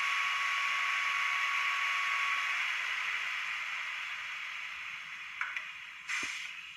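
Sound decoder of a Broadway Limited N scale GG1 model locomotive playing a steady hiss through its small speaker, with a steady tone that stops after about two and a half seconds; the hiss slowly fades as the shutdown sequence runs, and a few sharp clicks come near the end.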